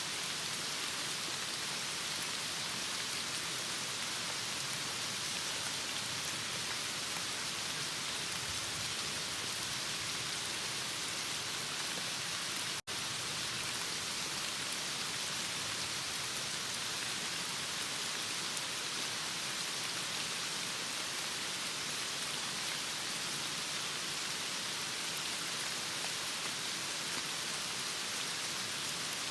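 Heavy rain falling steadily, an even hiss. The sound cuts out for an instant about halfway through, then resumes unchanged.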